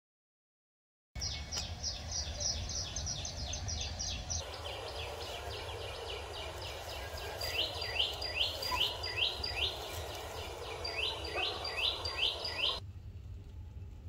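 Common tailorbird calling over and over: sharp notes that sweep down in pitch, three to four a second, in runs. The calls start about a second in and stop abruptly shortly before the end, over a low steady rumble.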